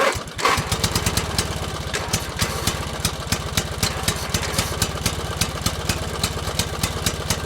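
Small engine running steadily in a rapid low chug, with regular sharp clicks on top, like a tractor engine idling.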